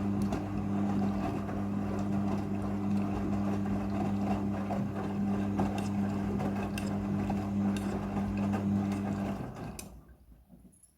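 Midea front-loading washing machine running, a steady motor hum with a churning noise under it, which cuts off about ten seconds in.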